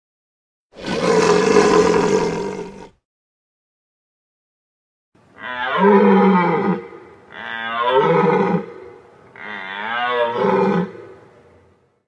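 A lion roars once, about a second in, for about two seconds. After a pause, a stag (male deer) bellows three times in a row, each call wavering up and down in pitch.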